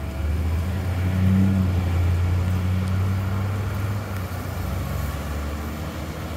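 A motor vehicle's engine running close by on the street: a low, steady rumble that is loudest about a second and a half in and eases off after about four seconds, over general traffic noise.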